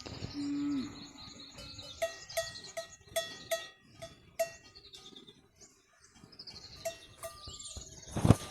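Livestock bells clanking irregularly, several ringing strikes a second at times, with birds chirping; a loud thump sounds near the end.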